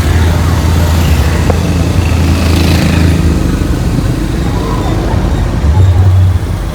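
Large carnival sound system of stacked speakers during a sound check, playing very loud with a deep, steady bass that dominates. The bass drops out about three seconds in and returns briefly near the end.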